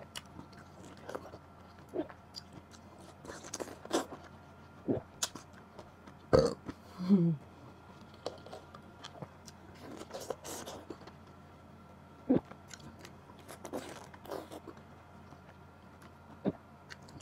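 Close-miked chewing of juicy pineapple slices, with scattered wet mouth clicks and bites, and a short burp about seven seconds in.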